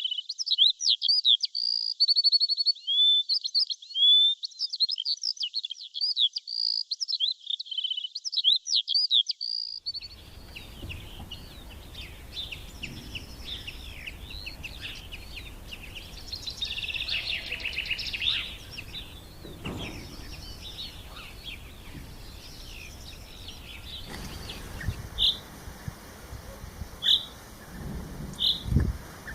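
Small songbirds chirping and twittering in quick, high-pitched runs. About a third of the way in the sound changes to scattered chirps and a rapid trill over a background hiss, and later to single short chirps every couple of seconds.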